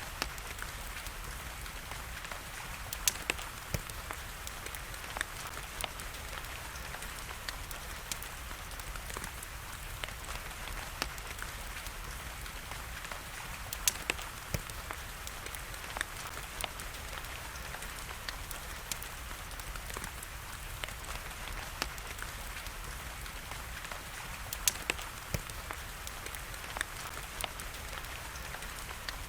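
Wood fire crackling in a fireplace, with sharp pops every few seconds, some in quick pairs, over a steady hiss of rain.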